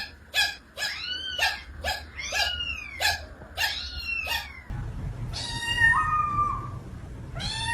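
A cat giving a quick run of short arched meows, about two a second, each rising and falling in pitch. About four and a half seconds in the background changes to a low rumble and a cat gives two longer meows that jump up in pitch.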